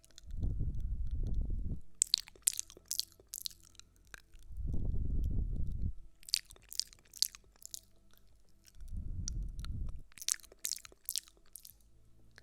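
Close-miked ASMR trigger sounds in a repeating cycle: a low, muffled rubbing of about a second, then a short run of crisp crackles, about every four seconds, three times over.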